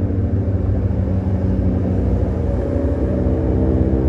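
Heavy truck's diesel engine labouring with a deep, low rumble, its tone shifting slightly about three seconds in and growing louder toward the end.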